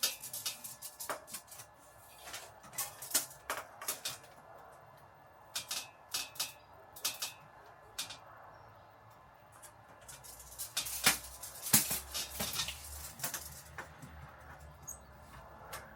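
Irregular clicks, taps and knocks of hand work with wooden panels and tools, with a louder cluster of knocks about two-thirds of the way through.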